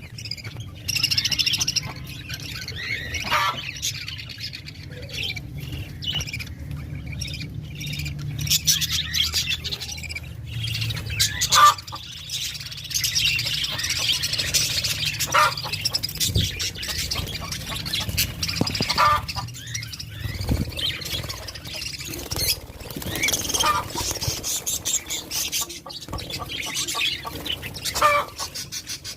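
Pet parrots squawking and chirping repeatedly in short, high calls, with a steady low hum underneath.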